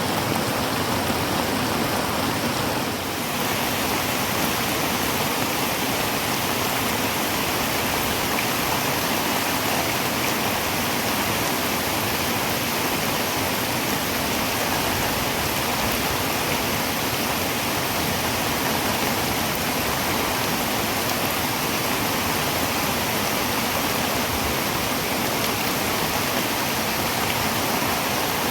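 Heavy rain falling on a tin roof: a steady, dense hiss with no breaks, dipping slightly for a moment about three seconds in.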